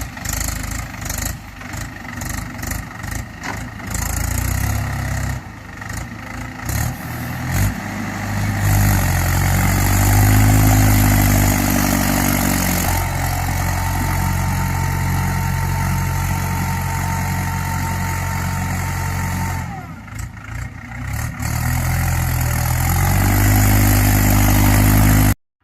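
Farm tractor's diesel engine revving and working hard under load, the tractor stuck in mud. The engine builds up about eight seconds in and holds a loud, steady pull with a high whine through the middle. It eases off around twenty seconds, then rises again near the end.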